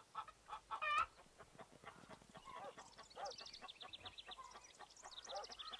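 Faint bird calls: one call about a second in, then a run of quick, high, repeated chirps.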